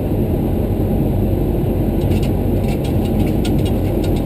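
Steady low rumble of engine and airframe noise in a Boeing 737-300's flight deck on the ground after landing, with faint crackling ticks from about halfway through.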